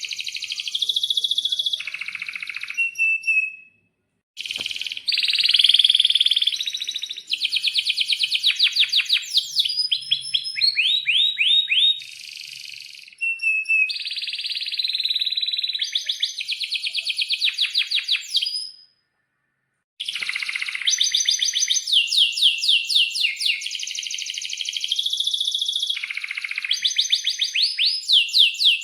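Domestic canary singing a long, loud song of rapid rolling trills and sharp chirps, with some quick falling notes. The song breaks off briefly twice, about four seconds in and again near the twenty-second mark.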